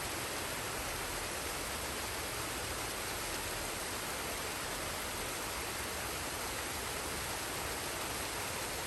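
Forest waterfall pouring into a stream: a steady, even rush of falling water that does not change.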